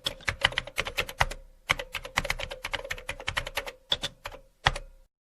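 Rapid typing clicks, several a second, in irregular runs with two short pauses, stopping abruptly about five seconds in.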